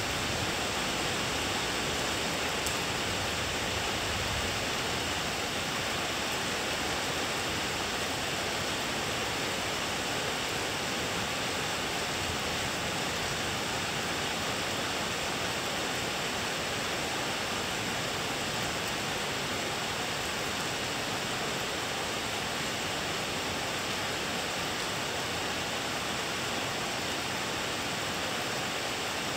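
Thunderstorm rain falling steadily: an even hiss with no thunderclap.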